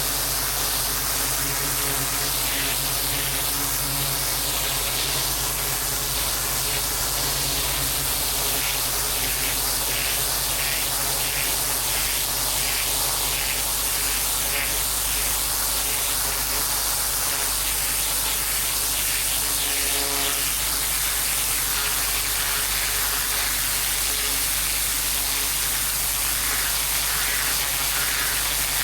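Pressure washer fitted with a turbo (rotary) nozzle blasting water onto paving slabs, a steady loud hiss of spray over the even hum of the machine running.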